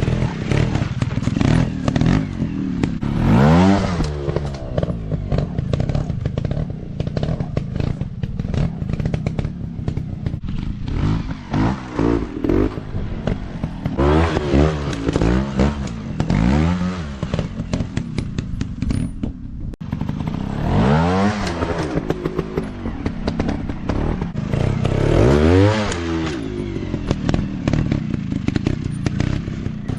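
Dirt bike engines revving hard, the pitch climbing and dropping in repeated swells as the throttle is opened and closed, with frequent short knocks and clatter.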